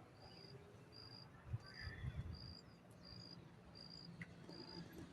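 A cricket chirping faintly in a steady rhythm, about three chirps every two seconds, all at one high pitch, over a low background rumble.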